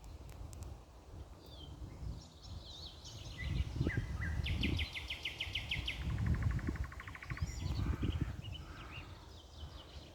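Songbirds singing, with a fast high trill about four seconds in followed at once by a lower trill of rapid repeated notes, among other short chirping phrases. A low rumble runs underneath.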